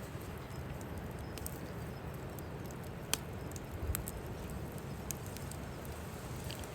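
Firewood fire crackling, with scattered sharp pops, the loudest about three seconds in, over a steady low rumble of wind on the microphone.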